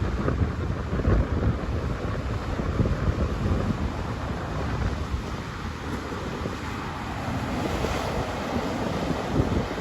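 Sea waves breaking and washing in, with strong wind buffeting the microphone. A wave's hissing wash swells about three-quarters of the way through.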